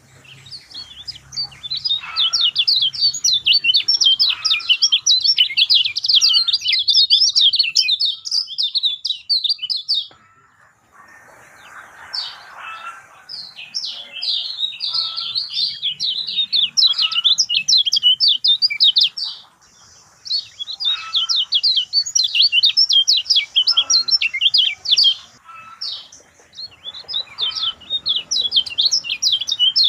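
Kecial kuning songbird singing in long, fast chattering bouts of high chirps, with short pauses between bouts.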